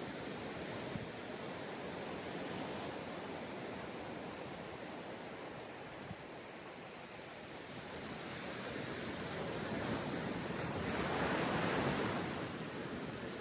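Sea waves washing onto a sandy beach in a steady surf wash, with one wave swelling louder about ten seconds in and breaking before it fades back.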